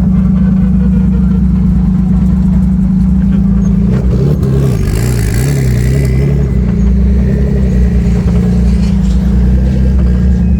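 A vehicle engine running loud and steady. For a couple of seconds around the middle its pitch wavers up and down, and a hiss swells and fades.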